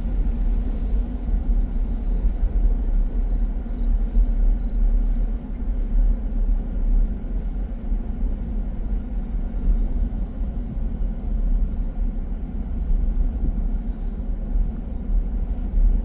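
Steady low rumble of a car driving, with wind noise surging and easing.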